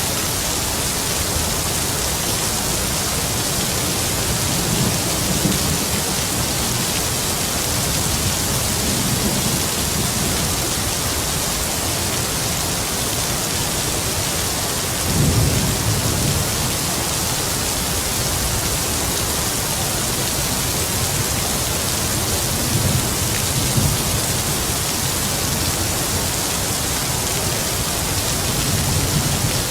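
Heavy rain falling in a steady hiss, with low rumbles of distant thunder swelling up several times; the strongest rumble comes about halfway through.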